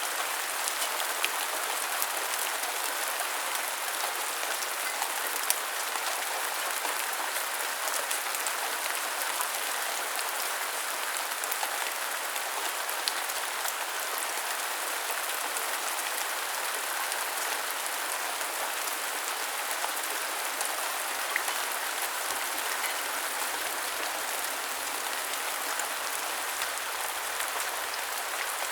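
Steady rain falling: an even hiss of many drops, with occasional sharper ticks of single drops.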